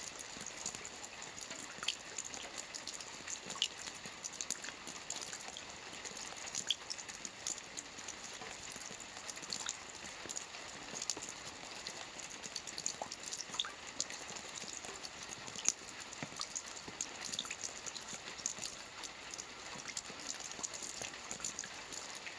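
Soft rain falling on a roof: a steady hiss with many small, irregular taps of individual drops.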